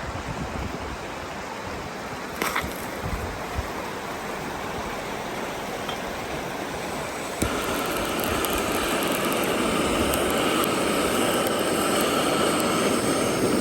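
Steady rushing water of a river, with a few short knocks in the first few seconds. About seven seconds in, the sound steps abruptly to a louder, denser rush with a faint steady tone, growing slowly stronger.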